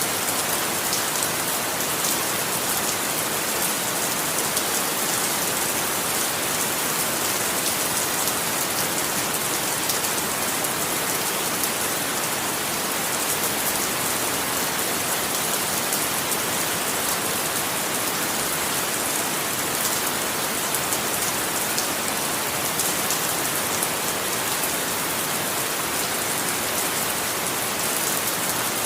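Steady rain falling, a constant hiss of water with many fine drop ticks and no pauses.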